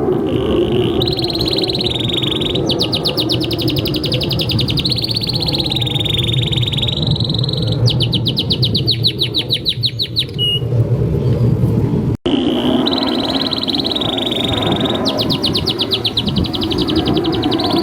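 Domestic canary singing a long, continuous song that alternates held whistled notes with fast rolling trills. It breaks off for about two seconds near the middle, then picks up again with the same phrases.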